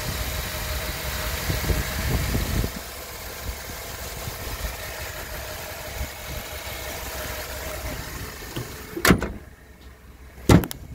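2011 Chevrolet Tahoe's V8 engine idling steadily, heard up close in the open engine bay, with a thin steady whine over the rumble; it is louder for the first few seconds. Near the end come two sharp knocks about a second and a half apart, after which the engine is fainter.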